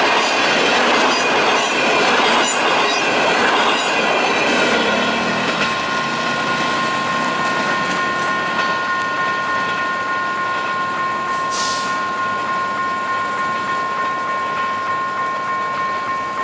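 Passenger train coaches passing close, wheels clattering over the rail joints, then the rumble slowly fading as the train pulls away. From about five seconds in, a steady high tone sounds over the fading train.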